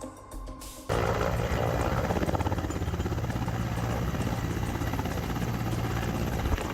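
Helicopter running, its engine and rotor making a steady loud drone with a fast flutter, starting abruptly about a second in.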